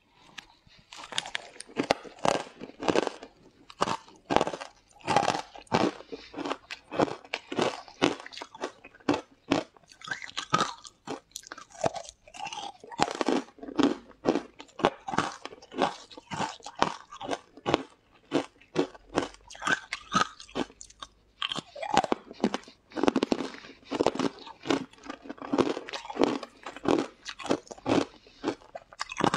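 Close-miked crunchy biting and chewing: a person crunching through hard green food chunks, a rapid, irregular run of crisp crunches.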